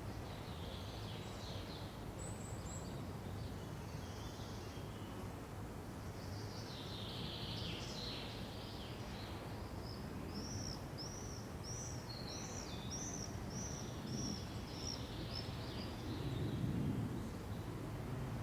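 Wild birds calling over a steady low hiss of forest ambience. From about ten seconds in, one bird repeats a short high note about twice a second for several seconds. Near the end there is a brief louder low sound.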